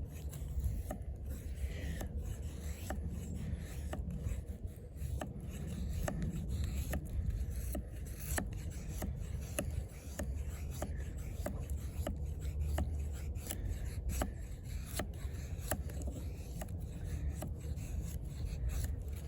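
Eafengrow EF-143's AUS-10 steel fixed blade shaving curls off a wooden stick, with short scraping strokes repeating about once a second.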